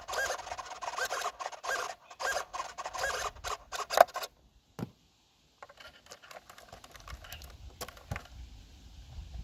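An RC model's servo twitching back and forth on its own, a string of short rising-and-falling whines with clicks: the servo is glitching after getting wet. It cuts out about four seconds in, followed by fainter scattered clicks and a low rumble.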